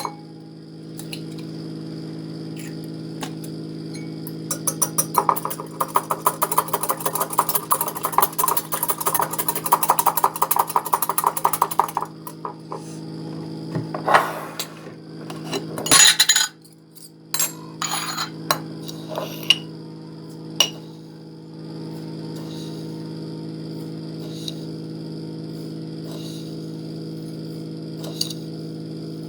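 Kitchen utensils and dishes over a steady appliance hum. A rapid run of clattering against a bowl lasts several seconds, followed by scattered clinks of dishes and cutlery.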